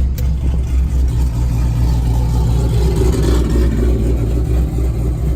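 A cammed car engine idling with a deep, uneven rumble.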